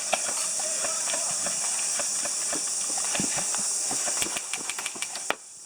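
Scattered sharp clicks and pops at irregular intervals over a steady high hiss. The hiss cuts off suddenly near the end.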